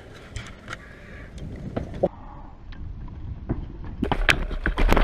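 A bicycle knocking and clattering as it is ridden over a playground obstacle, with scattered knocks that build to a loud cluster of thuds and rattles near the end.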